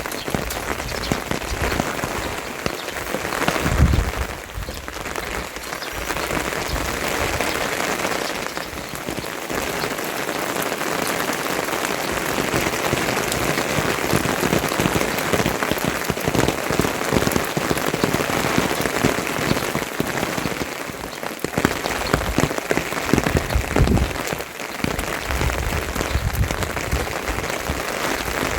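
Rain falling steadily, a dense even hiss, with a brief low thump about four seconds in and another near the end.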